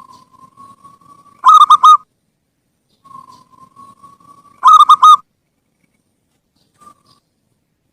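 Zebra dove (perkutut) singing: a soft, drawn-out note, then a loud burst of four quick coos, heard twice about three seconds apart.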